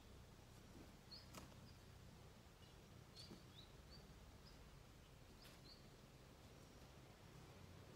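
Near silence: a faint steady low hum, with a few faint short bird chirps and a couple of faint clicks.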